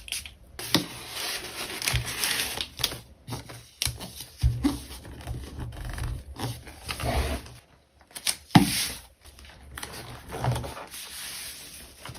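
Hands handling packaging: crinkling, rustling and tearing of plastic wrap and paper, with sharp taps and clicks in irregular bursts and short pauses between.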